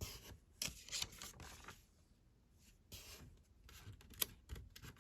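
Paper pages of an instruction booklet rustling as they are handled and turned: a run of short, irregular rustles, with a sharper tap about four seconds in.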